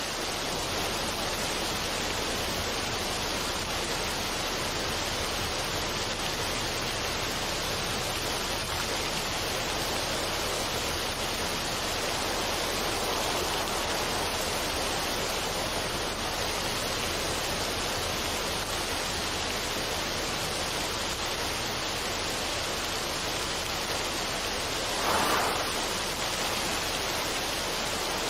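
Steady, even rushing noise of a relaxation sound bed, like falling water, with no music or tones in it; a brief swell in loudness comes near the end.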